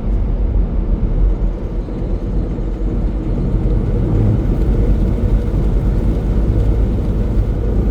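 Semi-truck cruising at highway speed, heard from inside the cab: a steady low rumble of engine and road noise.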